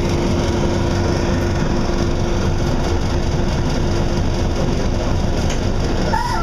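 City bus running, heard from inside the cabin: a steady engine rumble with a constant droning hum.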